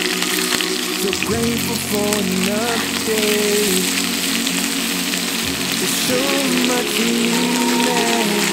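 Chicken legs sizzling as they pan-fry in butter, oil, minced garlic and ginger: a steady, dense crackle of spitting fat. Background music plays underneath.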